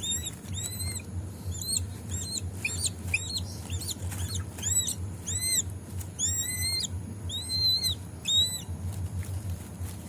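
Eagle giving a string of about a dozen short, high, arched squealing calls in quick, irregular succession while it is being hand-fed meat.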